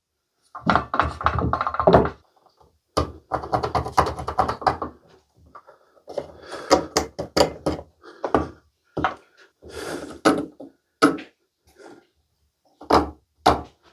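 Irregular knocks, thunks and clatter of hard parts being handled and bumped against wood while a water filter is positioned for mounting. There is a short rustle about ten seconds in and a couple of sharp knocks near the end.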